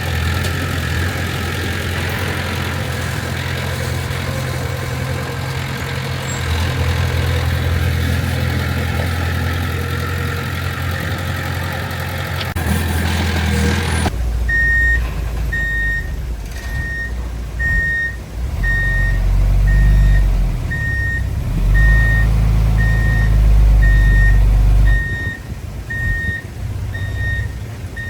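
Heavy diesel engine of earthmoving machinery running steadily. About halfway through the sound changes abruptly to a reversing alarm beeping about one and a half times a second over a diesel engine that swells louder for a few seconds, as a machine backs up under load.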